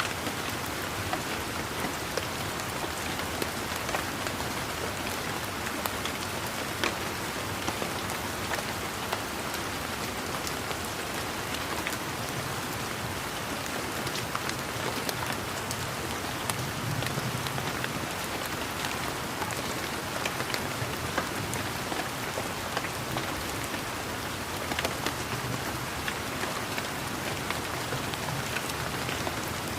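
Steady rain falling, with the patter of many separate raindrops ticking through an even hiss.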